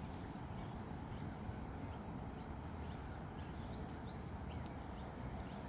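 Small birds chirping, short high-pitched notes repeating about twice a second, over a steady low outdoor rumble.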